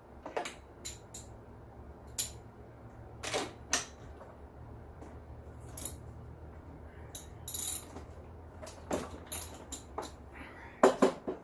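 Irregular metallic clicks and clinks of a 5/8 socket wrench working the spark plug out of a Poulan Pro leaf blower's engine, with a cluster of louder clicks near the end.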